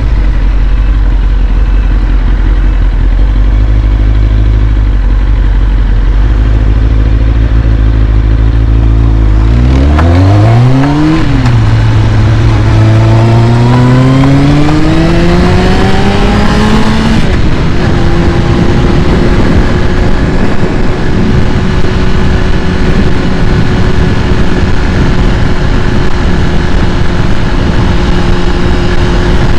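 2001 Kawasaki ZX6R's carbureted inline-four engine running on a cold start. Its speed drops at the start and holds a low steady idle, then about a third of the way in it rises in a quick blip and a slower climb, and settles at a steady higher speed for the rest.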